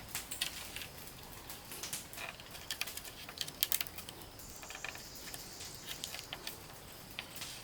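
Irregular light clicks and taps, several a second and uneven in strength, with a louder cluster about three and a half seconds in.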